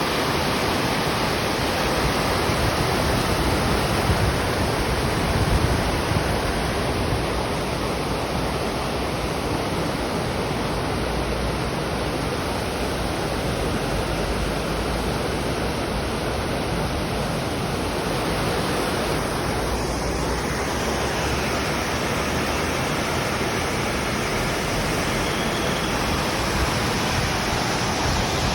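Steady rushing water, a continuous even noise without let-up.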